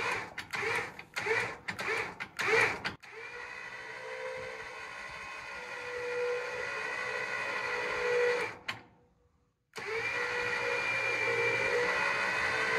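Electric trailer winch motor running under load with a steady whine that slowly gets louder, winching a car onto a trailer. It cuts out for about a second, then starts again near the end.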